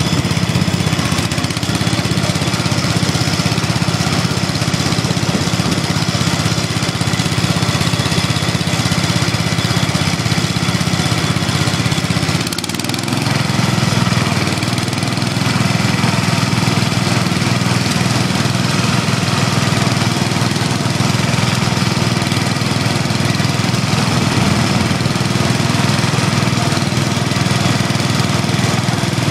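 Small lawn and garden tractor engines running steadily, with a brief dip about halfway through.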